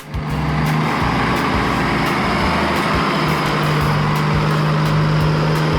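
Cartoon train sound effect of a train running: a steady rumble with a low hum that grows stronger about three seconds in, and a string of light clicks.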